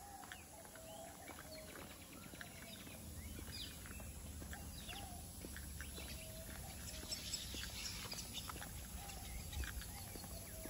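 Outdoor birds calling with short, repeated chirps, faint, over light footsteps on a concrete path and a low rumble.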